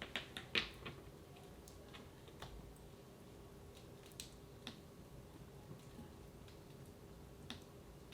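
Wood fire in a fireplace crackling: a quick run of sharp pops in the first second, then single pops every second or two, over a faint steady hum.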